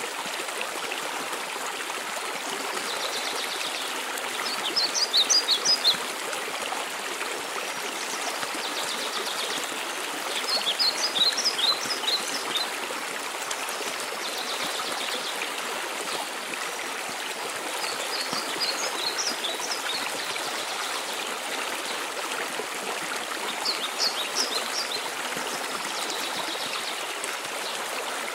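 Waterfall rushing steadily, with a songbird singing short phrases of quick high notes four times, roughly every six seconds.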